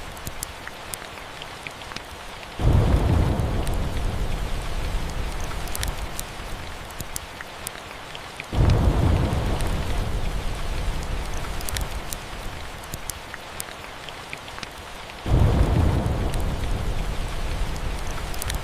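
Steady rain with thunder: three low rumbles, each starting suddenly and fading over several seconds, about six seconds apart.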